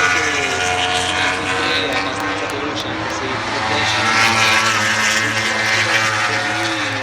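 Several MotoGP racing motorcycles passing at speed, their engine notes overlapping and rising and falling in pitch through the gears, loudest about four seconds in.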